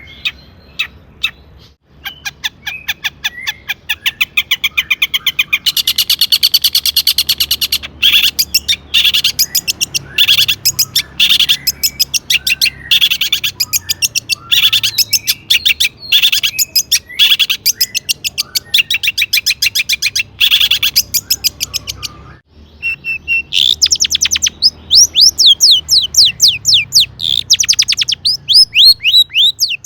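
Long-tailed shrike (cendet) singing in long, rapid runs of sharp repeated notes and harsh chatter. After a short pause about two-thirds through, it switches to a series of quick falling whistled notes.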